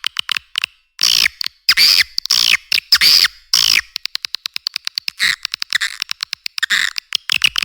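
Swiftlet calls played as a lure track for a swiftlet house: loud chattering chirps in long bursts with falling sweeps, then rapid even trains of clicks, about fifteen a second, a little past the middle, then chirps and clicks mixed.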